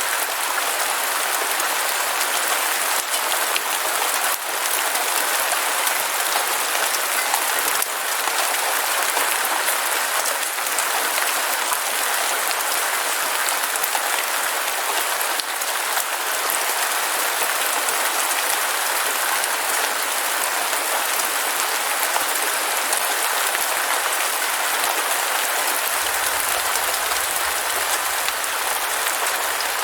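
Heavy rain falling steadily: a dense, even hiss with faint scattered drop hits.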